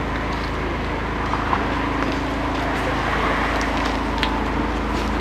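A car engine idling steadily, over a constant background of outdoor noise with a few faint clicks.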